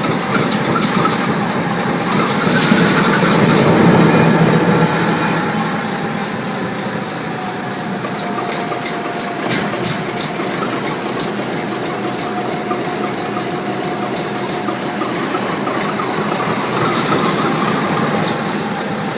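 Large Duvant 9VOS diesel engine running steadily. It swells louder about two to five seconds in, and a short run of sharp ticks comes about halfway through.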